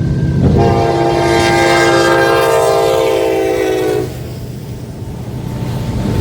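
Locomotive air horn sounding one long blast of several notes at once for about three and a half seconds, its pitch sagging slightly before it cuts off, over the low rumble of the passing train, which carries on and grows louder near the end.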